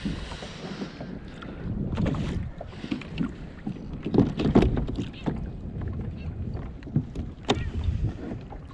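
Irregular knocks and clatter on a fishing kayak, over water sloshing and wind buffeting the microphone.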